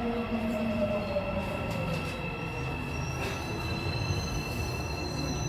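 Busan Metro Line 3 subway train running as it slows, with a whine that falls in pitch over the first two seconds, an underlying rumble, and steady high squealing tones, one more joining about three seconds in.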